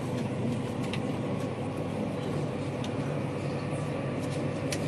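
Steady rumble of a passenger train running, heard from inside the carriage, with a few faint clicks.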